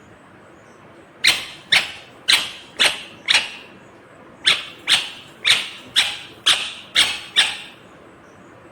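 Indian ringneck parrot giving loud, harsh screeching calls at about two a second: a run of five starting about a second in, then after a short pause a run of seven.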